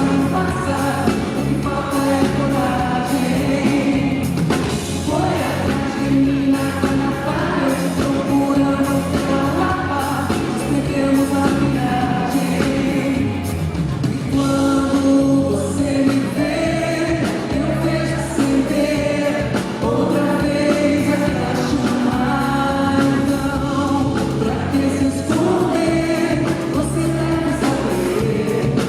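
Live band performance of a Brazilian pop song: a woman singing sustained melodic lines over full band accompaniment with a steady drum beat.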